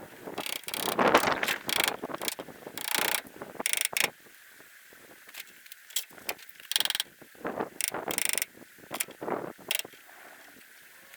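Hand tools working on metal golf-cart front-end parts: about four seconds of dense clattering and scraping, then separate sharp clicks and knocks.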